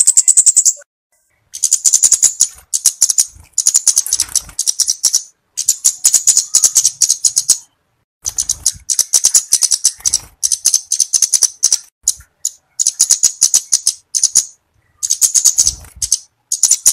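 Flowerpecker (cabe-cabean) calling: loud, high, sharp ticking notes in quick runs of about one to two seconds, repeated with short pauses between them.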